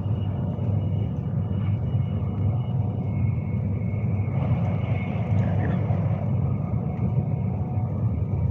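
Steady low rumble of a Class 390 Pendolino electric train running along the line, heard from inside the carriage.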